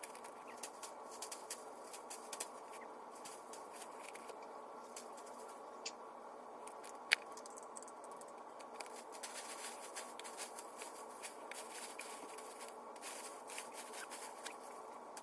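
Vines being cut and pulled from a pear tree, heard sped up sevenfold: a rapid scatter of sharp snips, clicks and scratchy rustling over a steady low hum, with one sharper click about seven seconds in.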